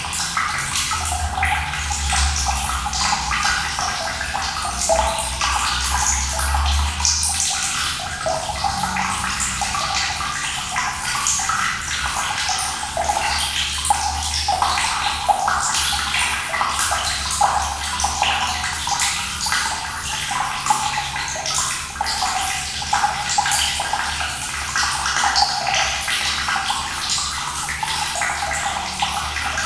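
Running water splashing steadily, with a dense, flickering patter of small splashes. A low rumble underneath drops off about seven seconds in.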